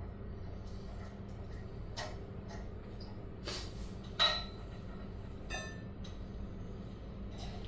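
A few scattered metallic clinks and knocks, the loudest about four seconds in, with a brief ringing after a couple of them, over a steady low hum.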